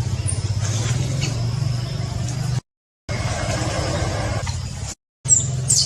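Steady low engine drone with a fast even pulse, like a motor running, that cuts out twice briefly; a few short high-pitched squeaks near the end.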